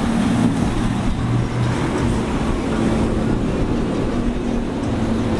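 Motorboat engines running steadily, with wind and water noise.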